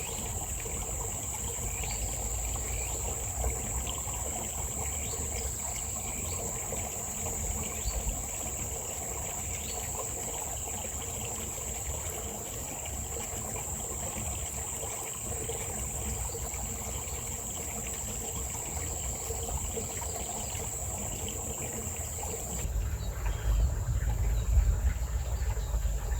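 Insects trilling in one steady high-pitched drone, with faint scattered chirps. A low rumble underneath grows louder near the end.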